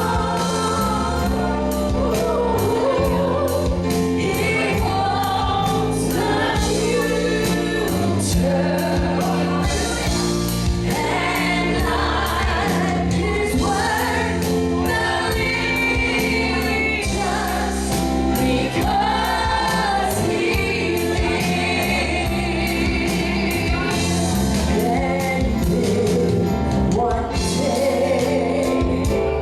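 Gospel music: a choir and singers over a band with bass and a steady drum beat.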